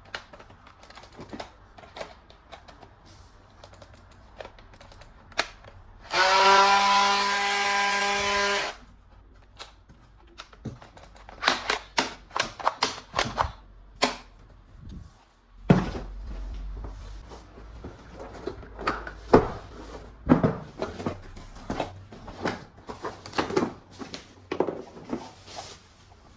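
Clicks and clacks of plastic toy guns being handled and worked, irregular and sometimes in quick runs. About six seconds in, a steady buzzing tone lasts about two and a half seconds.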